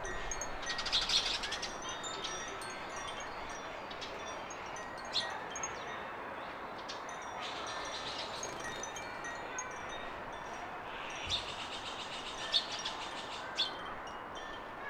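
Small garden birds chirping and twittering, with quick buzzy trills about a second in and again near the end, and a few sharper single chirps toward the end, over a steady background hiss.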